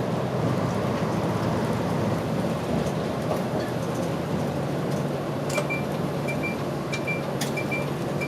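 Steady running noise of a route bus. About five and a half seconds in, a short high beep begins repeating about twice a second, with a few light clicks.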